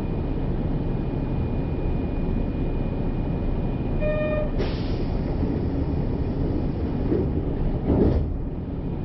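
Kyoto subway train standing at a platform with its doors open, a steady low rumble throughout. About four seconds in, a short pitched chime sounds, then a sudden hiss of air. Near the end there is a loud thud, fitting the doors closing before departure.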